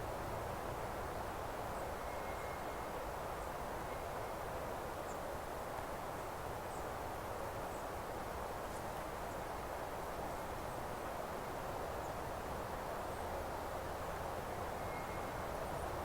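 Steady, even rushing outdoor background noise, with a few faint, short, high bird chirps scattered through it.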